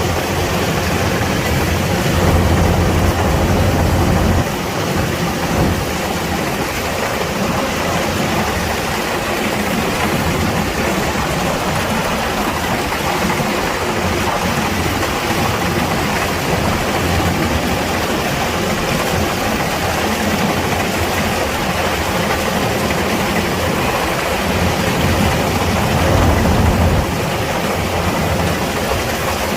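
Kubota DC-105X combine harvester running, a steady engine drone under dense, even threshing and machinery noise. The low engine hum is stronger for the first four seconds and again briefly near the end.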